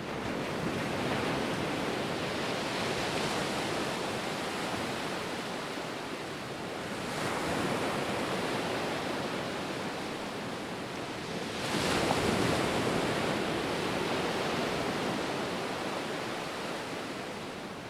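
Ocean waves breaking and washing on a shore, a continuous wash of surf that swells roughly every five seconds, loudest about twelve seconds in, then eases.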